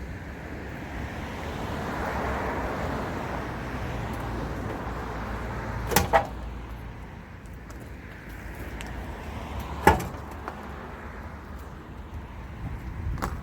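Sharp knocks and bangs over a steady rushing background: two close together about six seconds in, one near ten seconds and another near the end.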